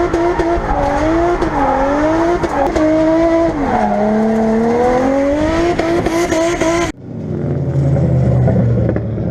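Nissan RB25DET turbocharged straight-six in a drift car, running at high revs with its pitch wavering up and down, and dropping for a moment a little under four seconds in. About seven seconds in the sound cuts to a lower, steadier engine note.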